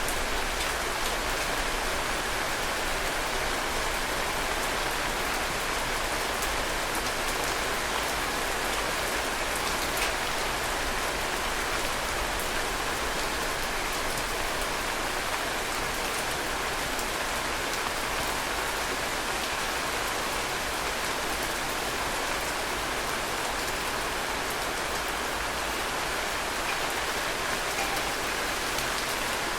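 Heavy rain falling steadily: an even hiss with scattered individual drops ticking, one a little louder about ten seconds in.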